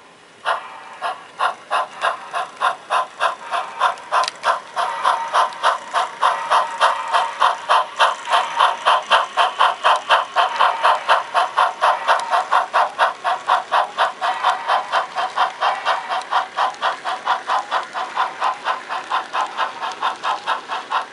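HO scale model steam locomotive's sound decoder chuffing steadily as the engine runs, about four even chuffs a second.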